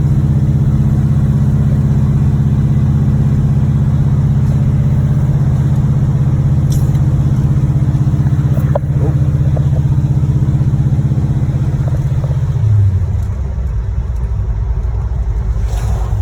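1986 Monte Carlo SS's 305 V8 running while the car is driven, a steady drone whose note drops about 13 seconds in. The engine has a rod knock, a worn connecting-rod bearing knocking in the bottom end.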